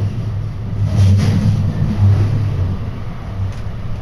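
Osaka Loop Line commuter train running, heard from inside the carriage: a loud low rumble that swells about one to two seconds in and eases slightly toward the end.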